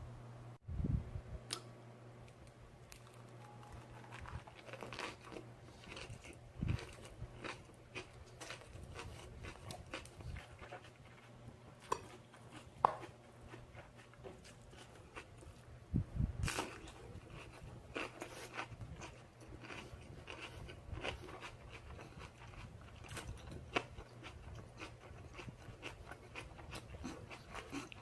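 A person chewing and crunching food close to the microphone, with many small scattered clicks and taps, over a faint steady low hum.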